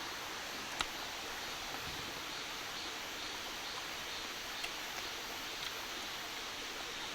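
Steady outdoor ambient hiss, an even wash of natural background noise, with one faint click a little under a second in.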